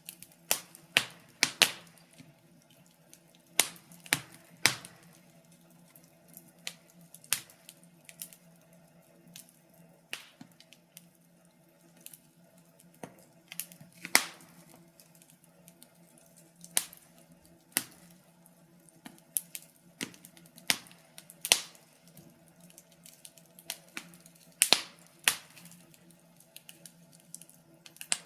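Wood fire crackling, with irregular sharp snaps and pops, some in quick clusters and others with gaps of a second or more between them, over a faint steady low hum.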